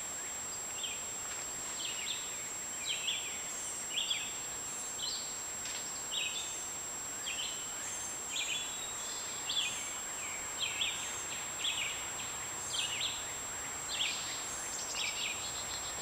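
A bird chirping repeatedly, short high notes about once or twice a second, over a steady thin high-pitched tone.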